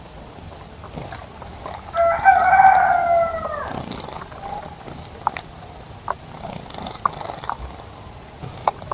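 A bird's long crowing call lasting about a second and a half, falling in pitch at the end, with faint high chirps and a few small ticks around it.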